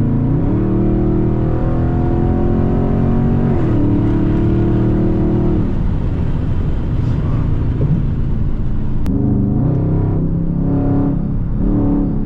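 Straight-piped Dodge Scat Pack's 6.4-litre HEMI V8 exhaust accelerating under hard throttle: the note steps up about half a second in, climbs again near four seconds, then drops off as the throttle closes. A few shorter revs follow near the end.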